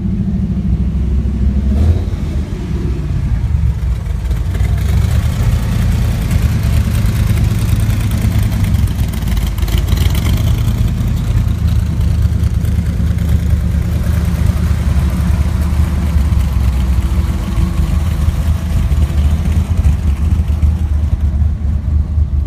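Car engine running with a steady deep rumble. Its sound brightens and swells in the middle, around ten seconds in, then settles back.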